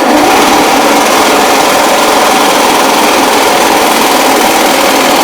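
Power tool cutting 18-gauge cold rolled sheet steel along a marked line, running steadily under load with a loud, even hiss.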